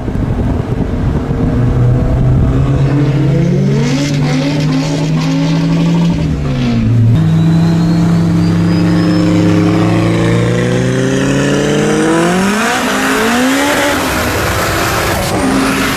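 Car engines at full throttle in a race. The revs climb steadily and drop sharply at a gear change about seven seconds in and again around thirteen seconds, over a loud rush of wind and tyre noise.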